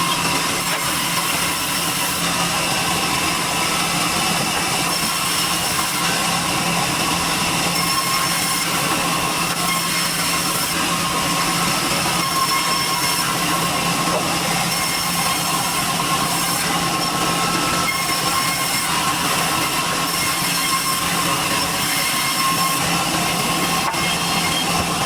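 Sawmill machinery running steadily while durian wood is processed: a dense, unbroken hiss with a steady hum and a few held tones.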